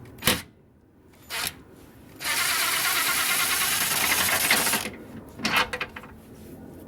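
Ratchet wrench clicking rapidly for about two and a half seconds as a subframe bolt is worked loose, with a couple of sharp metal clicks before it and a few after.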